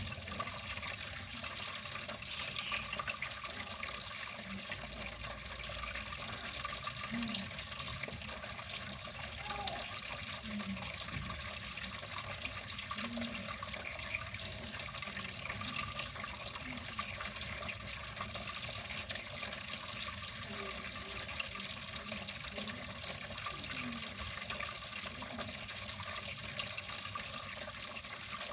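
Water flowing steadily in an even, unbroken rush, like a tap running.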